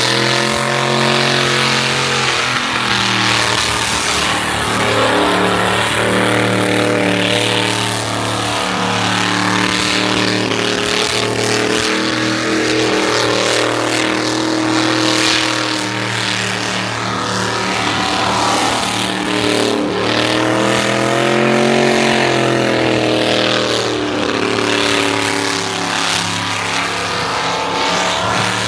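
Car engine running steadily, its pitch rising and falling every few seconds as it is revved.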